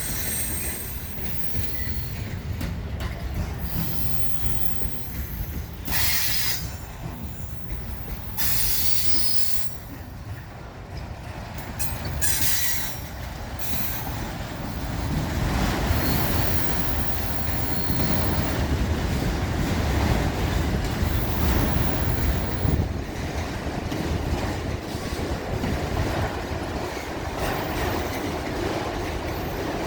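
Train rolling past, its wheels squealing and screeching against the rails in high, on-and-off squeals for the first half. It then changes to a louder, steady rumble of rail cars with clickety-clack over the rail joints.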